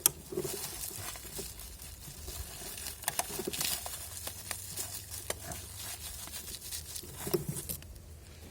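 Rustling and crinkling of handled material, with scattered light clicks and a couple of knocks; it dies away shortly before the end.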